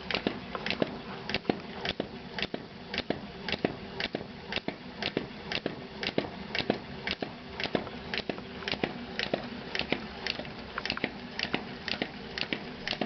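Model caloric hot-air engine running steadily. Its mechanism clicks at an even rhythm of about two to three clicks a second, over a faint steady hum.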